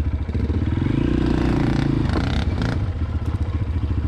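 Honda CRF230F dirt bike's single-cylinder four-stroke engine running at low speed, revving up about half a second in and dropping back after about two seconds, with a short burst of clatter as it comes off the throttle.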